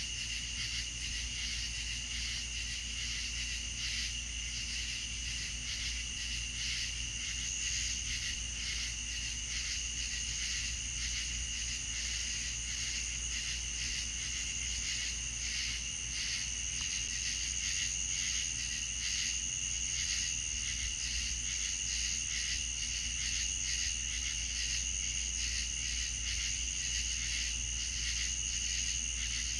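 A chorus of crickets trilling steadily at two high pitches, with the higher one growing stronger partway through, over a low steady rumble.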